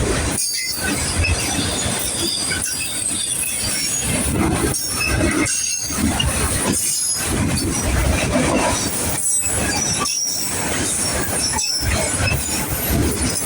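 Freight train cars rolling past, with steel wheels squealing on the rail and a steady rumble and clatter that dips briefly every second or so.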